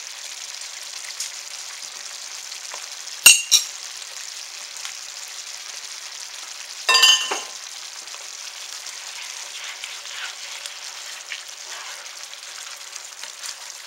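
Gravy with beef patties, onions and mushrooms sizzling and bubbling in a skillet, brought up to a boil so the cornstarch finishes thickening it. A spatula stirs through the sauce. A couple of sharp utensil knocks and clinks against the pan come a little over three seconds in and about seven seconds in.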